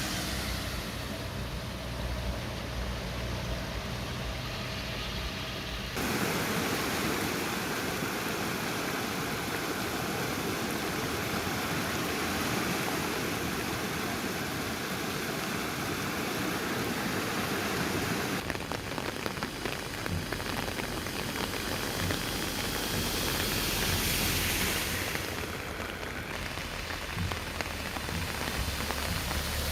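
Heavy downpour: a steady rush of rain, its sound changing abruptly about six seconds in and again around eighteen seconds as the recording moves between shots.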